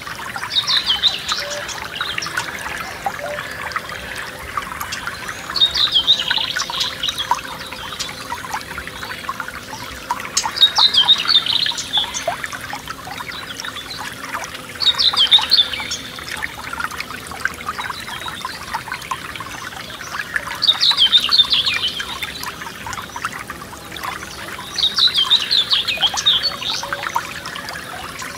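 Forest stream trickling and splashing over stones, steady throughout. A songbird repeats a short, high, falling song phrase about every five seconds over it.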